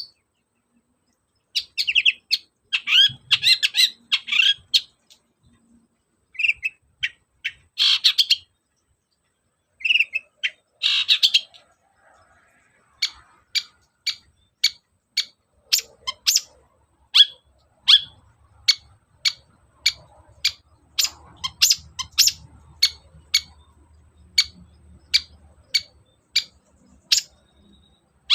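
Long-tailed shrike (cendet) singing: clusters of varied, scratchy chattering notes in the first half, then a long run of short, sharp repeated notes at about two a second.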